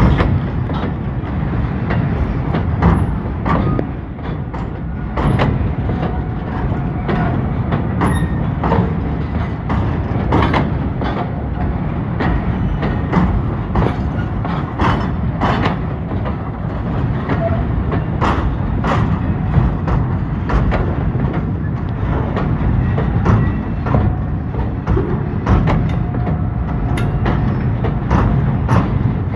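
Container freight wagons rolling past: a steady low rumble with irregular clicks and clanks of the wheels over the rail joints.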